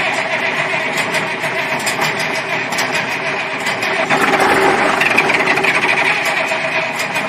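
Cummins 250 inline-six diesel in a 1970 Kenworth W925 truck, running steadily with a busy mechanical clatter.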